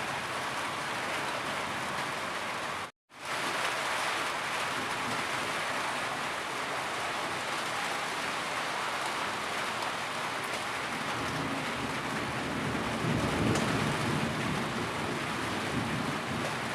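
Steady heavy rain falling, an even hiss of many drops. It cuts out completely for a split second about three seconds in, then resumes. A low rumble swells under it about twelve seconds in and fades a few seconds later.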